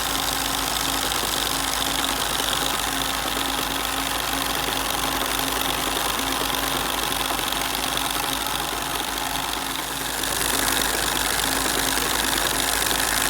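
Bing toy live steam engine running steadily, with a continuous hiss of steam over its mechanical running sound. The hiss grows louder and brighter about ten seconds in.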